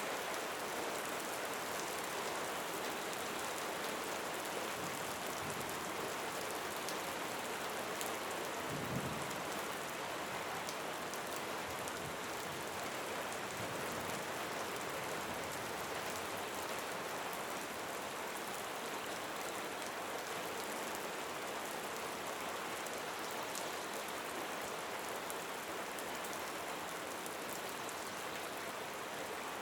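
Steady rain falling, an even hiss of drops on surfaces, with a single brief knock about eight seconds in.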